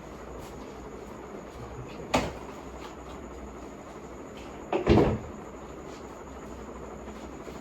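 Two knocks from household things being handled and put away, like a cupboard or drawer being shut. The first comes about two seconds in and a louder, rattling one about five seconds in, over a steady low hum.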